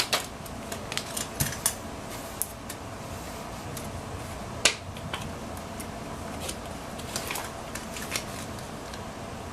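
Scattered light clicks and taps of plastic parts and packaging being handled while freeing an RC truck from its box fastenings, with one sharper click about four and a half seconds in.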